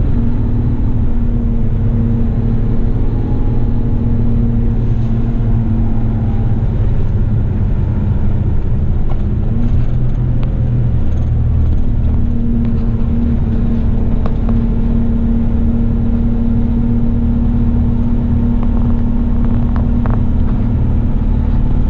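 Heavy eight-wheeler twin-steer rigid truck running in traffic: a steady low rumble of the diesel engine and road noise with a humming tone that fades for several seconds midway and then comes back.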